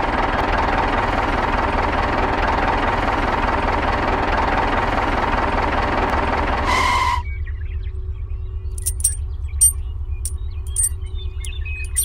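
A motor runs steadily, then cuts off abruptly about seven seconds in. A low hum remains, with scattered light clicks and ticks.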